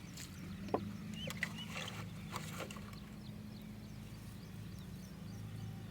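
Faint outdoor background: a steady low hum, with a few light clicks and faint chirps in the first three seconds.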